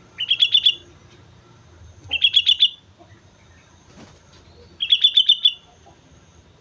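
Sooty-headed bulbul singing: three short phrases, each a quick run of five or six clear notes, about two seconds apart.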